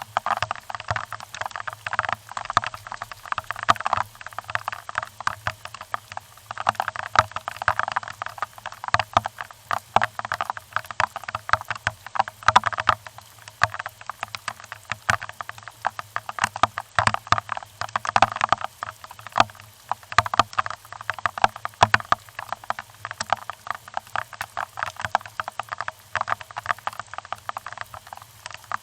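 Rain pattering: a dense, irregular run of sharp drop ticks, steady throughout.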